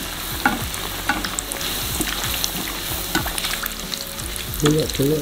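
Crumbed chicken Kievs frying in hot vegetable oil in a pan: steady sizzling with many small crackles, while a metal spoon scoops oil over their tops.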